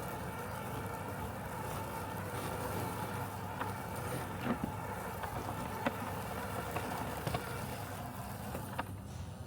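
Robotic lawn mower running with a steady mechanical hum, with a few short clicks in the middle.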